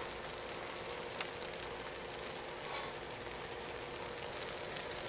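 Beaten eggs and tuna frying in a pan: a low, steady sizzle with small crackles.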